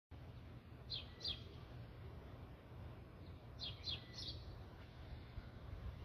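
Small bird chirping: short, quick falling chirps, two about a second in and three in a quick run around the middle, over a steady low rumble.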